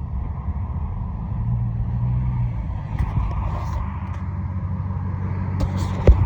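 Car engine running steadily at low revs while driving, heard from inside the car, with a few faint clicks near the end.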